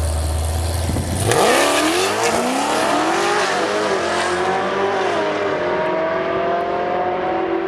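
Drag racing car's engine rumbling low, then launching hard about a second in and accelerating away. The engine pitch climbs, drops briefly at each gear shift, and settles into a steady high note.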